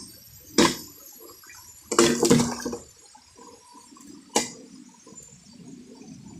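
Several sharp knocks: one about half a second in, a quick cluster around two seconds in, and another near four and a half seconds, with faint low rustling between them.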